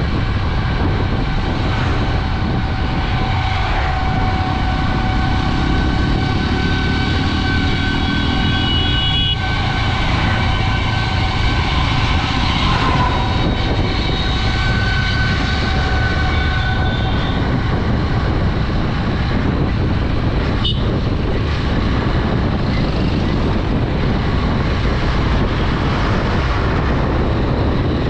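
A Honda Dream 110 motorcycle's single-cylinder engine running steadily while riding, mixed with wind rush on the microphone. A steady whine-like tone sits over it for the first half or so. There is a single sharp click about two-thirds of the way through.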